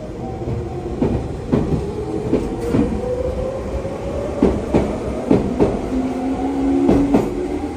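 Stainless-steel electric commuter train pulling out of the platform close by: its motor whine rises slowly in pitch as it gathers speed, and its wheels clack over rail joints again and again.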